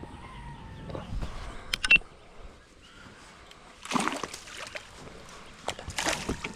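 Water splashing and sloshing in a few short bursts, with a couple of sharp clicks about two seconds in.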